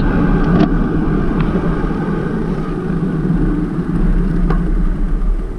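Steady, loud rumble of traffic and road noise heard from a moving bicycle on a city street.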